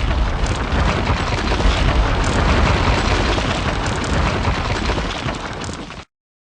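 Sound effect of a wall bursting apart in a video intro: a loud, explosion-like crash and rumble that starts abruptly, eases off slightly and cuts off after about six seconds.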